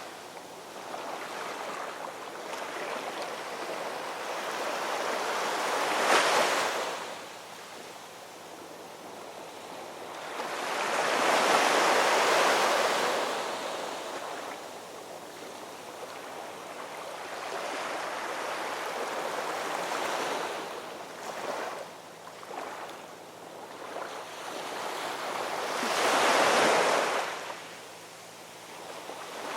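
Ocean waves washing in and receding in slow swells, with three louder surges of breaking surf between quieter stretches.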